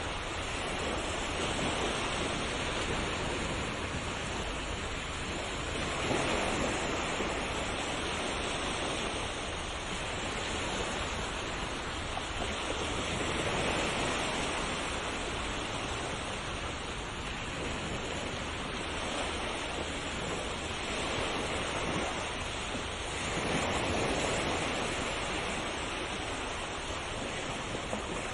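Sea waves breaking and washing on a shore, a continuous surf hiss that swells gently every few seconds.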